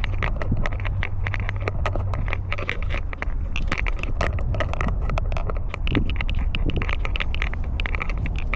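Close rubbing and handling noise from a camera worn on a walking cat's collar: rapid, irregular clicks and scrapes over a steady low rumble.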